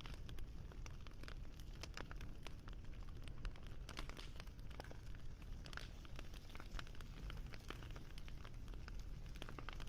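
Wood fire crackling: a dense, irregular run of small pops and snaps over a low steady rumble.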